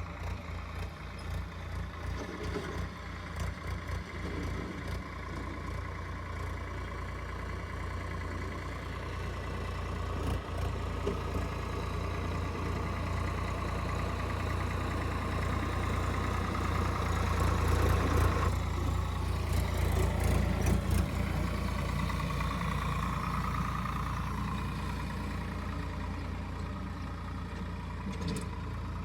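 Diesel tractor engine running while hauling soil. It grows louder and heavier around the middle, then eases back.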